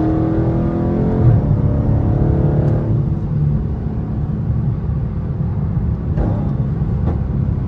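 Dodge Charger 392's 6.4-litre HEMI V8 accelerating, its exhaust note rising in pitch over the first few seconds before settling into a steady low drone while cruising. A couple of short sharp cracks come from the exhaust, which is tuned to pop.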